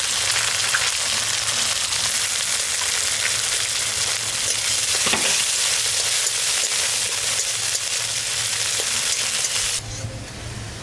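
Chopped tomato sizzling loudly in hot oil and ghee in a metal kadai, stirred with a spatula that clicks and scrapes against the pan. The sizzle drops quieter near the end.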